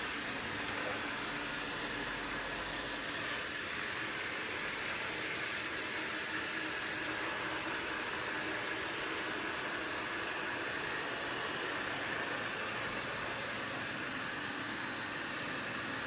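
Robot vacuum running with a steady whir and a faint high whine, cutting off suddenly at the end.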